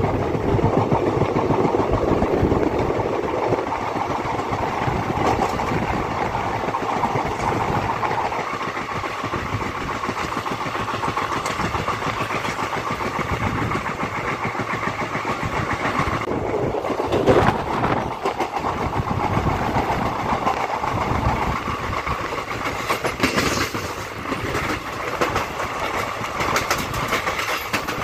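Indian Railways ICF passenger coach running at speed, its wheels rumbling and clattering steadily on the track. There is a sharper, louder clank about two-thirds of the way through and a run of quicker clattering near the end.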